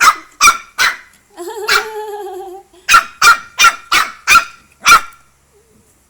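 A dog barking loudly: three quick barks, then one drawn-out wavering call of about a second, then a run of about six sharp barks before it stops near the end.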